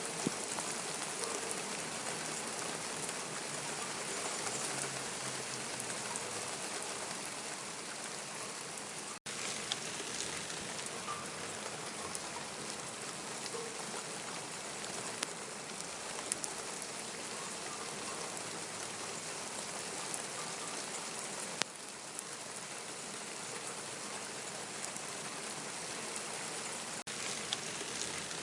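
Steady rain falling, with scattered louder drops striking nearby surfaces. The sound drops out for an instant about nine seconds in.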